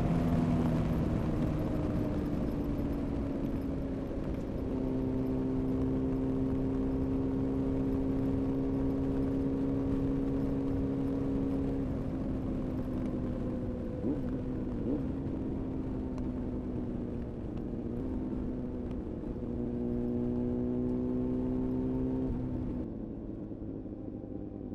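Honda CBR-929RR's inline-four engine through an Erion full racing exhaust, running at a steady cruising speed under wind rush. The engine note drops just after the start, holds steady, sags slightly midway, and climbs briefly before it quietens near the end.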